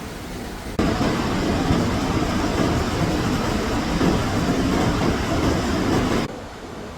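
Loud, steady rushing of water with no rhythm. It starts abruptly about a second in and cuts off abruptly near the end.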